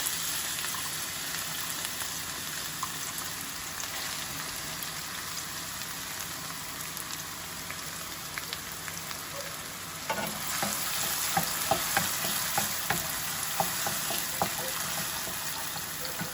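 Chopped onion frying in hot oil in a pan, a steady sizzle that slowly settles. From about ten seconds in, the onion is stirred with a utensil, adding short clicks and scrapes against the pan.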